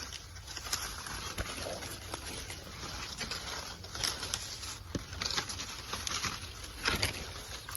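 Dry maize stalks and leaves rustling and crackling irregularly as someone walks through the dried crop.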